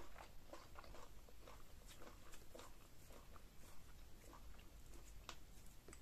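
Faint, close-miked chewing and small wet mouth clicks from eating pounded yam fufu with ogbono okra soup by hand.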